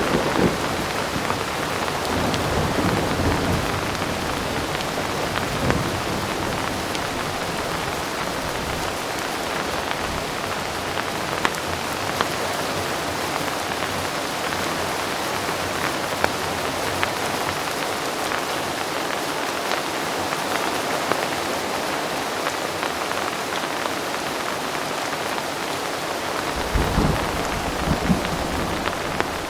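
Heavy rain falling steadily, with scattered sharp drop hits. Distant thunder rumbles low at the start and again near the end.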